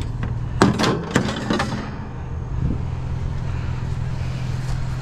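A few sharp knocks and clanks in the first two seconds as pieces of a rusted metal garden planter are handled, over a vehicle engine idling steadily.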